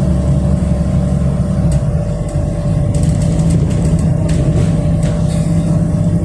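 City bus engine and drivetrain running steadily while the bus drives along, heard from inside the passenger cabin. The engine note shifts about two seconds in, and short rattles and clicks from the interior follow.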